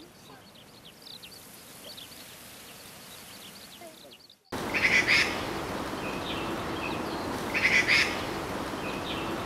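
Faint high chirps of a small bird. After a sudden cut, a magpie gives harsh chattering calls over a steady background hiss, with two loud bursts about three seconds apart.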